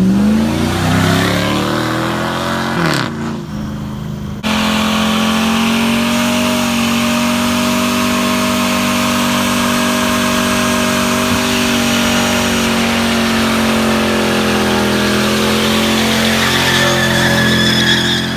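Car engine revving, rising in pitch in the first second; after an abrupt jump in loudness about four and a half seconds in, it is held at steady high revs for over ten seconds, with a hiss over the top, dipping slightly near the end.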